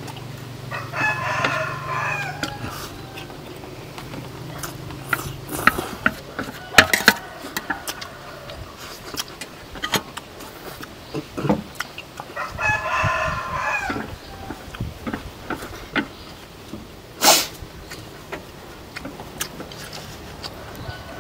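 A bird calls twice with a drawn-out crowing call of about a second and a half each, once about a second in and again about halfway through. Scattered sharp clicks and knocks fall in between, the loudest near the end.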